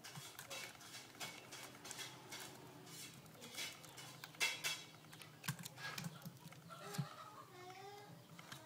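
Irregular sharp plastic clicks and taps from the netbook keyboard's keys being pressed and handled. A bird starts calling in the background about seven seconds in.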